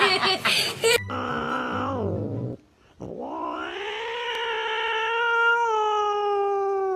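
A cat yowling in two drawn-out calls: a shorter one that falls in pitch, a brief pause, then a long one of about five seconds that rises, holds and drops away at the end. It is the angry warning yowl of a fierce cat.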